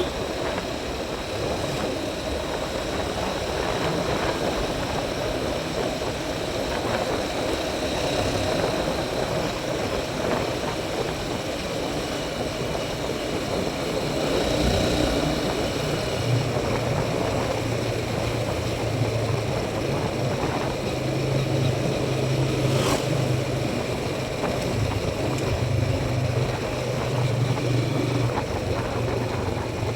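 Motorcycle engine running on the move, with steady wind and road noise over it. A low, even engine note grows stronger about halfway through.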